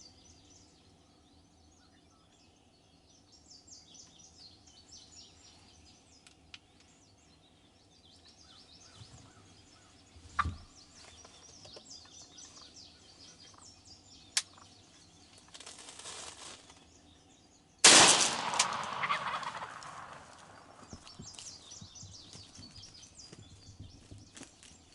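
Wild turkey gobbling with small birds chirping, then a single 20-gauge shotgun blast about eighteen seconds in, loud and sudden, echoing away over a couple of seconds.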